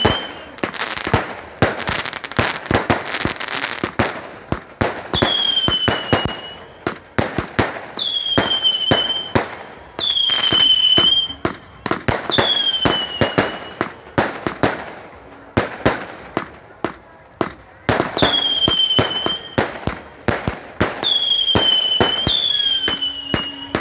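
Fireworks going off in a dense run of sharp bangs and crackles. Whistling fireworks give a shrill whistle, each about a second long and dropping slightly in pitch, roughly every two seconds.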